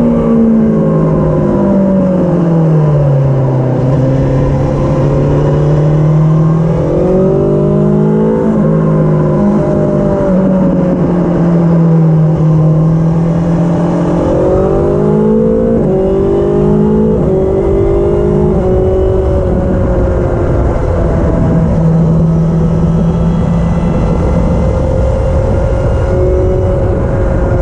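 2020 BMW S1000XR's inline-four engine with an aftermarket exhaust, heard on the move. Engine pitch drops in the first few seconds, then climbs in short steps broken by quick gear changes through the middle, and holds steady near the end.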